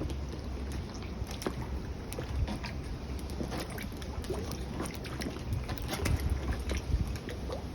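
Typhoon wind buffeting the microphone in a steady low rumble, with many scattered small clicks and taps throughout.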